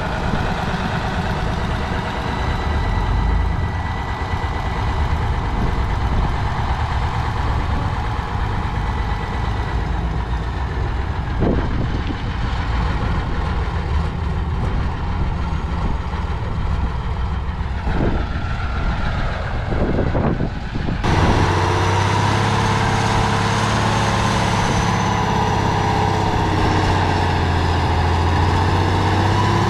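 Heavy off-road trial truck diesel engines running, a dense low rumble with a few knocks, then, after an abrupt change about two-thirds of the way in, a steady, even engine drone.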